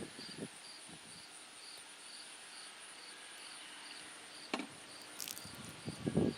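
Crickets chirping steadily, about two to three chirps a second, over a fainter continuous high insect trill. A single sharp click sounds about four and a half seconds in, with some low handling rustle near the end.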